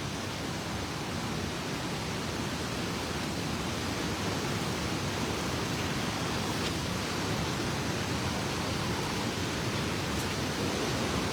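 Steady rushing of a waterfall and fast river current, an even, unbroken wash of water noise.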